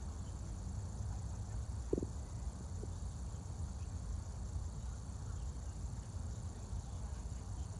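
Outdoor background noise: a steady low rumble, with one short soft thump about two seconds in.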